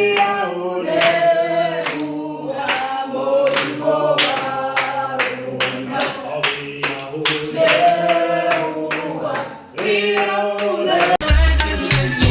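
A group of voices singing together with steady hand clapping, without instruments. About a second before the end, a song with a deep bass beat comes in.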